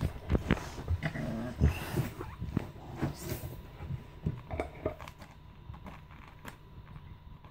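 Puppies playing: small growls and short whimpers among scuffling knocks and scratches, busy for the first few seconds and then quieter.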